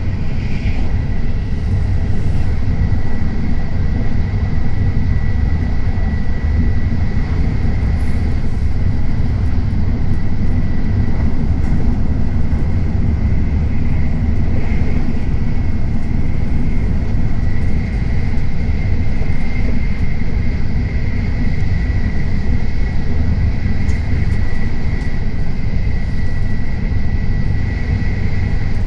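Tokaido Shinkansen bullet train running at speed: a steady low rumble with a thin high whine over it.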